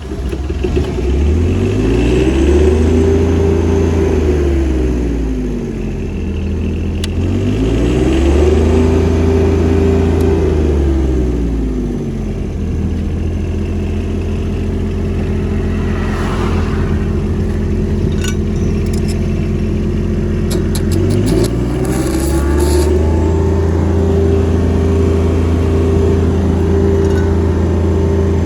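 Diesel engine of a Denyo BLW-280SSW II engine welder-generator running, speeding up from idle to high speed and dropping back, three times: it rises within the first few seconds, falls back to idle, rises again around eight seconds and falls, idles steadily for a stretch, then speeds up once more and holds high speed to the end.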